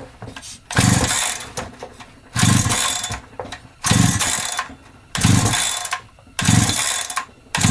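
Holzfforma G372XP two-stroke chainsaw pull-started on choke with the decompression valve open: six recoil-starter pulls, about one every second and a half, each a whir of rope and the engine cranking over. It does not fire, which the owner puts down to fuel not yet drawn up the line.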